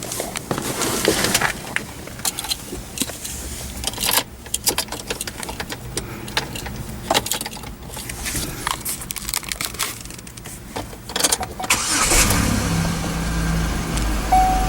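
Scattered clicks, knocks and rattling from handling inside the car. About twelve seconds in, the 2006 Chevy Impala's 3.9-litre V6 starts and settles into a steady idle, and a short dashboard chime beeps near the end.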